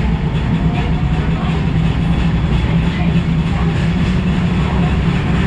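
Osaka Metro 22 series subway train running along the track: steady wheel and rail noise with a regular pounding from badly flatted wheels.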